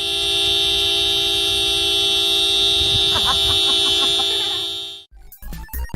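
One long, steady horn-like blast lasting about five seconds, with a brief wavering sound over it about three seconds in; the blast cuts off abruptly, and choppy music with thumps starts in the last second.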